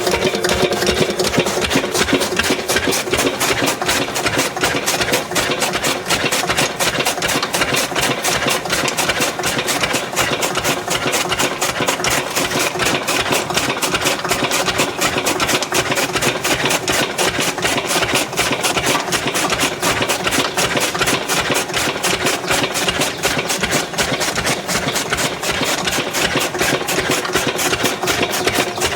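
Lister 8 HP single-cylinder diesel engine running steadily with a rapid, even beat, belt-driving a chaff cutter.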